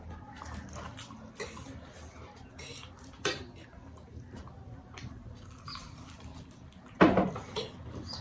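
Eating utensils clicking against dishes during a meal: scattered light clicks, with a louder clatter about seven seconds in.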